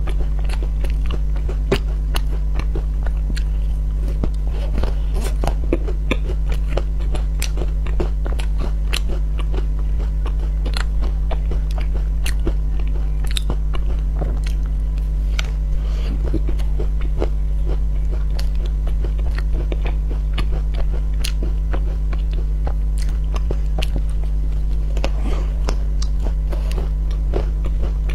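Biting and chewing an ice cream bar coated in crunchy dark cookie crumbs: a dense run of small, sharp crunches, over a steady low hum.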